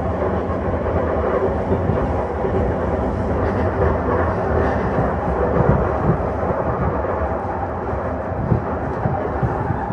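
Running noise inside a JR East E235 series electric train car while it travels at speed: a steady rumble of wheels on rail and car noise. This is set Tou-01, the one set with a Toshiba hybrid SiC VVVF inverter.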